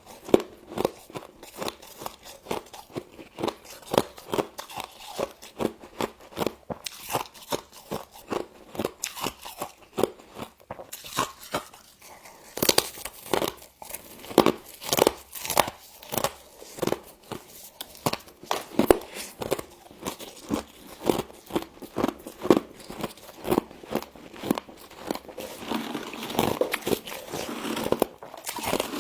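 Close-up crunching and chewing of frost: rapid, repeated crisp crunches, about two a second, with a denser crumbling stretch near the end.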